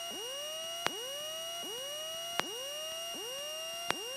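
Electrical interference in an aircraft intercom: a steady high whine with a short rising chirp about twice a second and a sharp click about every second and a half.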